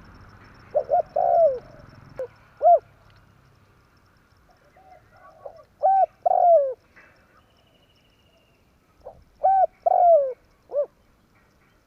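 Spotted dove (tekukur) cooing: three short phrases of a few deep coos each, the longer notes sliding down at the end, with quieter coos in between.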